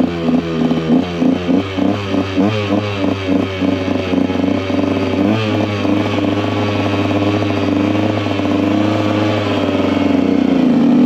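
KTM EXC 125's single-cylinder two-stroke engine running with quick small rises and falls in pitch for the first half, then settling into a steadier note that climbs near the end as the throttle opens.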